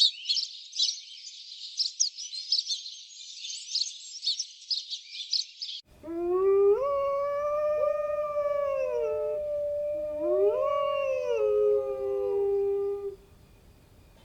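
High chirring insect chorus, which cuts off abruptly about six seconds in. Then a canine howling: a long rising, held howl, followed by a second howl that rises and falls away, ending a second before the end.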